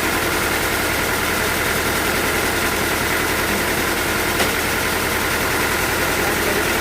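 Sawmill machinery running steadily, a constant engine-like drone with a high whine, and a single brief click about four and a half seconds in.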